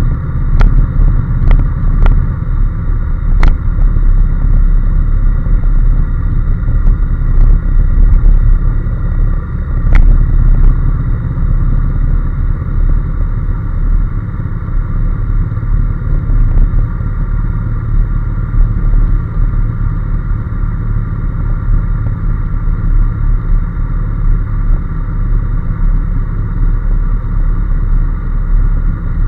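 Honda NC750S's parallel-twin engine running steadily on the move under a loud low rumble, with a few sharp clicks in the first ten seconds.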